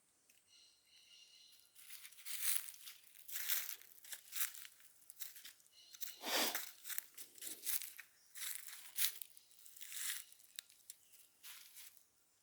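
Footsteps crunching and rustling through dry leaf litter and undergrowth on the forest floor. The steps come irregularly, about one every half second to a second, starting about two seconds in.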